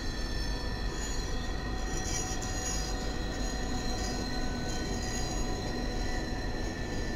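Norfolk Southern diesel freight locomotives rolling past, their engines a steady low rumble under a continuous high-pitched wheel-flange squeal. The squeal comes from the wheels grinding around the tight curve.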